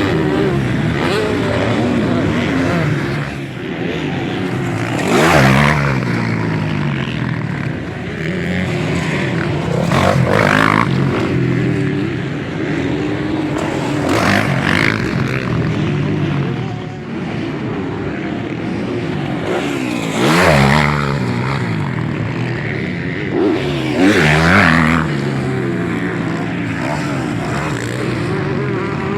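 Several motocross bikes racing round a track, their engines revving up and down as the riders work the throttle and shift gears, with five louder moments as bikes pass close by.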